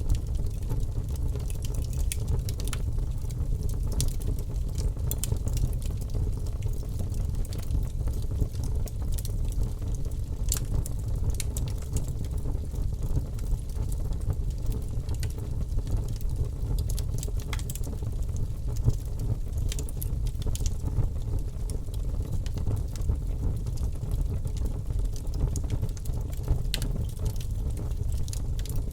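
Logs burning in a fireplace: irregular crackles and sharp pops over a steady low rumble of the flames.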